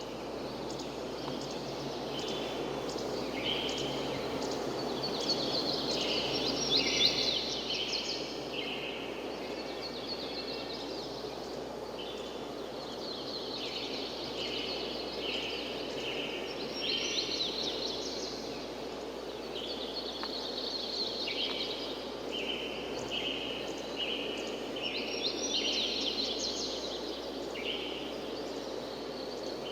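Birds singing, with many short calls repeating throughout, over a steady rushing background of wind or falling water.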